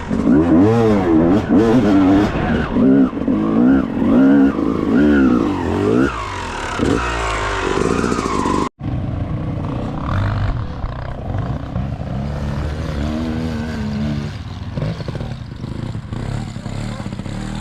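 Dirt bike engine revving hard, its pitch swinging up and down over and over. About nine seconds in the sound cuts off suddenly, then the engine goes on running lower and steadier.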